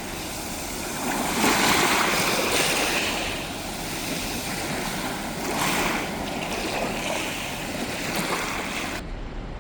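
Sea waves washing onto the shore, swelling louder twice, about one and a half seconds in and again near the middle; the sound changes abruptly to a duller rumble just before the end.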